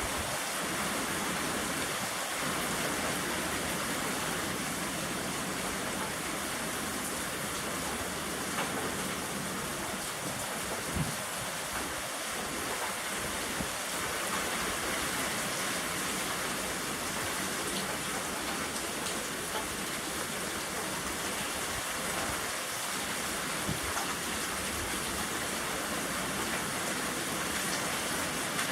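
Rain falling steadily in a strong wind: an even rushing hiss with a few faint ticks.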